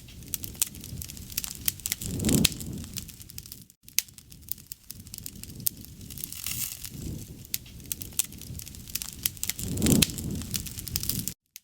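Wood fire crackling with many sharp pops and snaps over a low rushing of flames, which swells twice. The sound cuts out briefly just before the four-second mark and again near the end.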